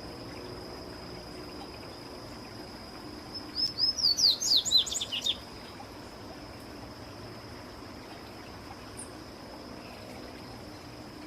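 A papa-capim baianinho, a seedeater, sings one quick phrase of sharp, sweeping high notes about three and a half seconds in, lasting about two seconds. A steady high insect-like buzz runs underneath.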